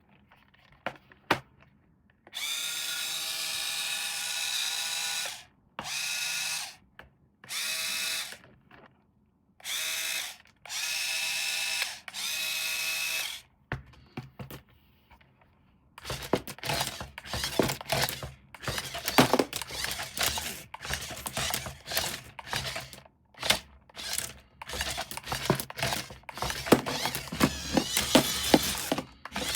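A small electric motor whirring in five bursts of one to three seconds each. It is followed, from about halfway through, by a long run of rapid clicking and clattering.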